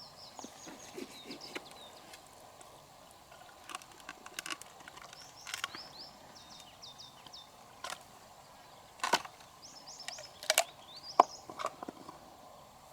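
Scattered sharp clicks and knocks of hard objects, loudest in the second half, with several runs of quick, high, falling bird chirps over a steady low hiss.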